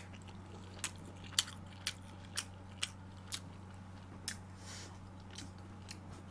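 A person chewing braised pork ribs close to the microphone: a string of short, sharp wet mouth clicks and smacks, about two a second at first and then more spaced out, over a faint steady hum.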